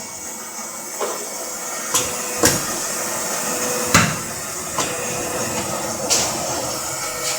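60-ton hydraulic punch press running with a steady hiss and a faint steady hum, broken by sharp metallic clunks about six times at uneven intervals as it works the steel.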